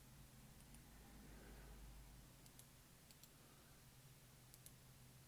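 Faint scattered clicks of computer input, several in quick pairs, over near-silent room tone with a low steady hum.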